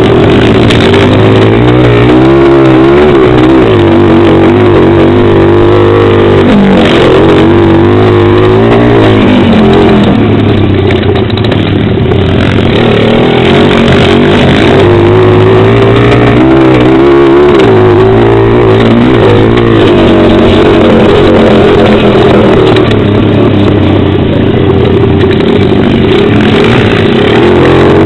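Pit bike engine revving up and down again and again as it is ridden, very loud on the helmet-mounted camera's microphone.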